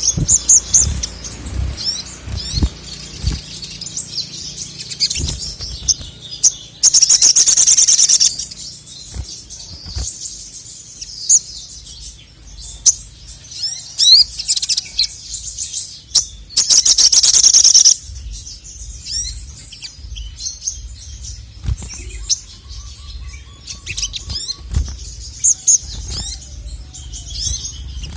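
Male sogon (sogok ontong), a small sunbird, singing in rapid high-pitched chirps and twitters. Two long, loud, very fast trills break out, one about seven seconds in and one about sixteen seconds in. A low hum runs underneath.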